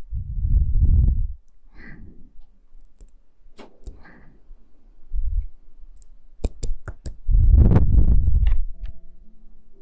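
Close-miked ASMR handling sounds: three heavy, muffled rubbing thuds against the microphone, the first at the start, a short one in the middle and a longer one near the end, with scattered sharp clicks between them.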